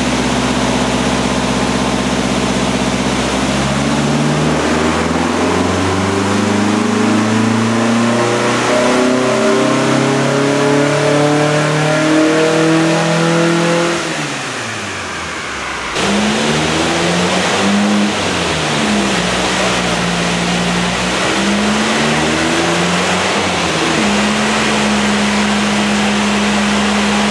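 Volkswagen Beetle flat-four engine on a chassis dyno making a power run: revs climb steadily under load for about ten seconds, then drop away quickly. After an abrupt change, an engine is revved in short blips and then held at a steady speed.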